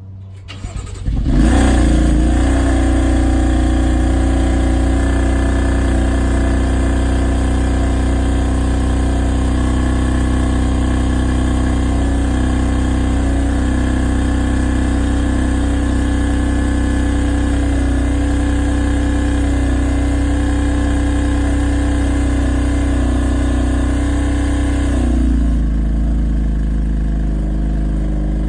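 BMW M3 engine starting: it cranks and catches with a rev flare about a second and a half in, then idles steadily at a raised idle. Near the end the idle steps down to a lower speed.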